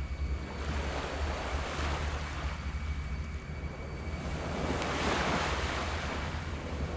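Tropical surf washing up a sand beach, building to a louder wash about five seconds in, over a steady low rumble.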